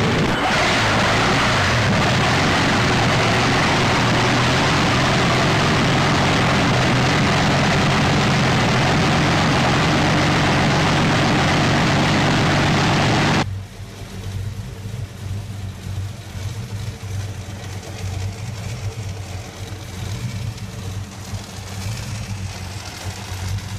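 Big engine of a vintage racing car running loud and steady, its side exhaust spitting flames. About 13 seconds in the sound cuts suddenly to a quieter engine idling, an engine with clear valve covers.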